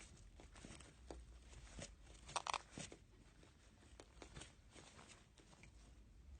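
Faint scattered clicks and light scratching, with a short louder cluster of clicks about two and a half seconds in.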